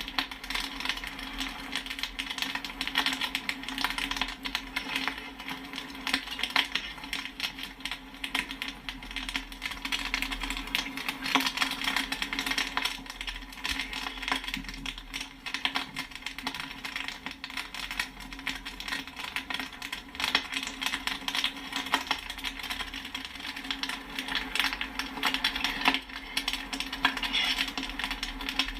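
Popcorn kernels popping in quick, irregular, overlapping succession, with sharp pinging pops, over a steady low hum.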